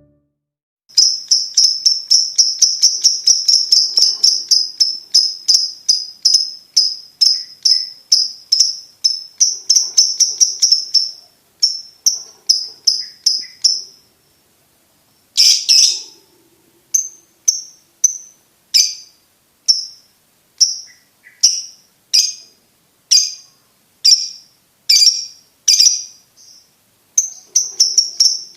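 Lovebird singing: a long run of shrill, rapid chirps, three or four a second, that breaks off about halfway. After one louder burst come slower single chirps about a second apart, and then a rapid run again near the end.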